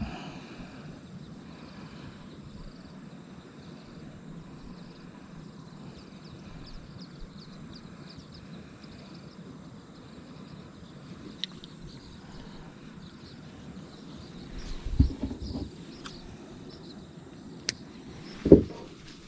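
Outdoor ambience: a steady low rumble with faint bird chirps, a few sharp clicks, and two dull knocks in the last few seconds.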